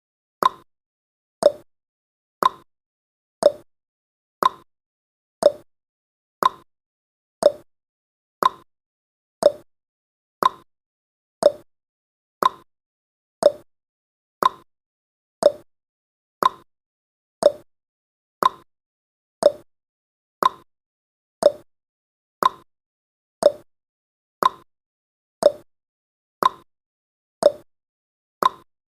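Clock tick-tock sound effect of a countdown timer: one short tick every second, alternating between a higher and a lower pitch.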